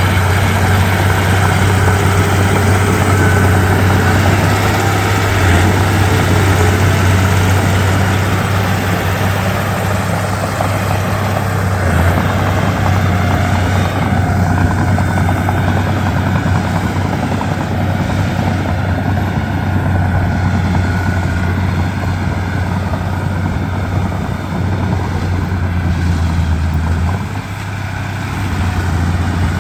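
Komatsu D31P bulldozer's diesel engine running steadily with a low, even drone, dipping briefly near the end.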